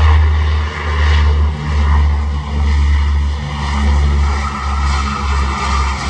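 Propeller airliner's piston engines running, most likely the Convair 340's two radial engines, a steady low drone that swells and dips about once a second.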